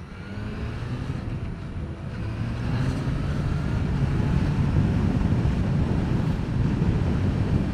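Motorcycle accelerating from the rider's point of view: the engine note rises over the first few seconds and then holds, under steady wind rush on the helmet microphone.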